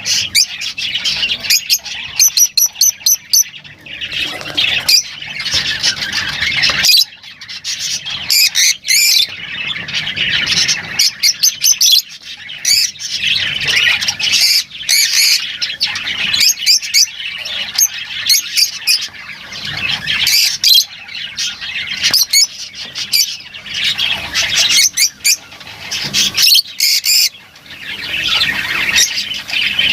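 Lovebirds chattering: a steady stream of quick, high chirps and squawks, many of them overlapping.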